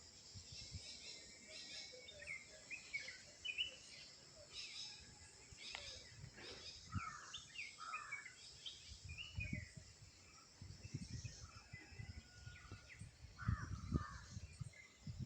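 Outdoor birdsong: many short chirps and calls from several birds, over a steady high-pitched hiss. From about halfway through, low thuds join in, loudest near the end.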